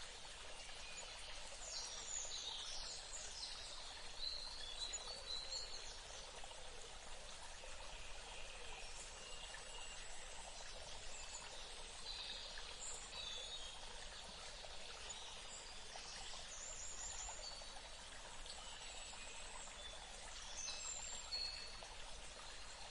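Steady trickling stream, with birds calling in short chirps on and off above it.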